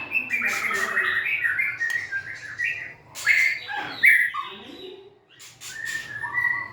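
White-rumped shama singing a varied, loud run of whistled notes, pitch glides and sharp clicks, with a short break a little after halfway.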